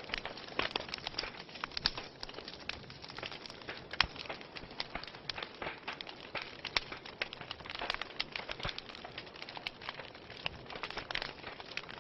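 Fire in a fireplace crackling: a steady hiss with frequent sharp pops, the loudest about four seconds in.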